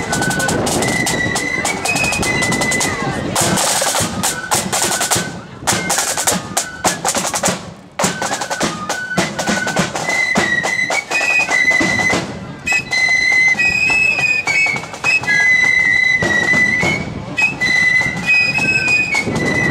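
Marching flute band playing: a flute melody over snare and bass drums. For a few seconds starting about three seconds in the flutes mostly drop out while the drums play on with dense snare rolls.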